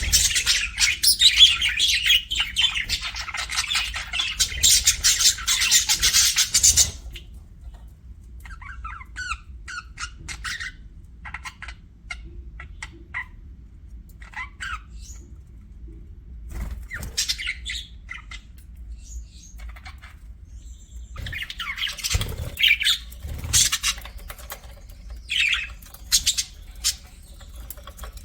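Pet budgerigars chattering and calling: a dense stretch of fast high chatter for about the first seven seconds, then scattered short chirps, then louder bursts of calls again in the last third.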